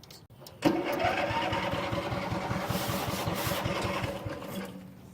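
Craftsman riding lawn mower's small engine chugging with a fast, even pulse. It starts suddenly about half a second in and dies away near the end.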